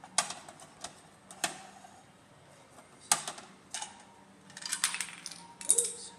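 Plastic toy garbage truck being handled: a series of sharp plastic clicks and clatters as its parts are worked and small toy garbage pieces are pushed into it, with a denser rattle of clicks near the end.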